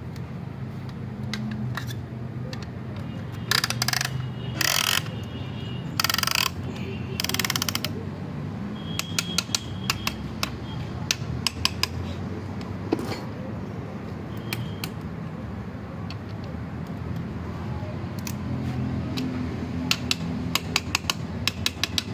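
Piston ring compressor being tightened around a piston's rings, clicking in runs of quick ratchet clicks. A few seconds in there are four louder rasping bursts.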